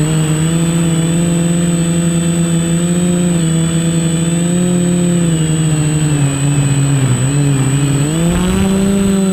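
Quadcopter's electric motors and propellers buzzing steadily in flight, the pitch dipping as the throttle is eased about seven seconds in, then climbing back near the end.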